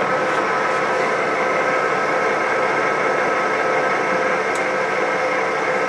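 Yang engine lathe running under power, a steady gear whine over even mechanical noise.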